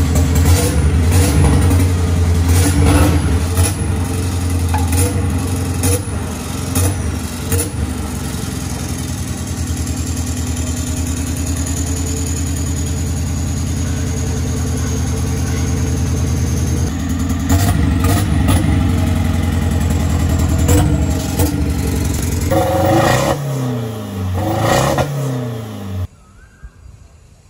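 Turbo diesel engine of a modified Isuzu D-Max drag truck running, with short sharp blips about once a second at first, then a steady stretch. Near the end it is revved several times, each rev falling back in pitch, and the sound cuts off suddenly.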